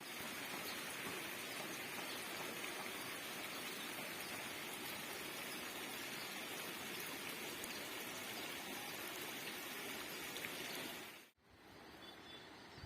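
Steady rushing of running water that cuts off suddenly about eleven seconds in, giving way to quieter outdoor ambience.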